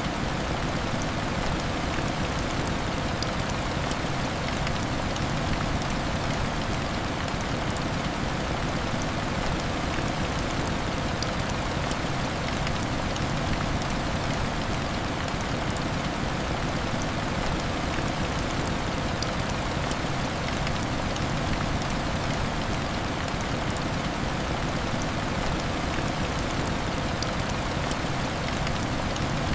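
Heavy rain hitting window glass, a steady even hiss dotted with fine drop ticks.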